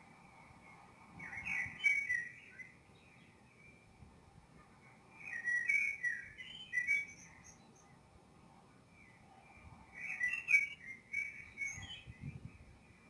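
Songbirds singing in short warbling phrases, in three bursts a few seconds apart.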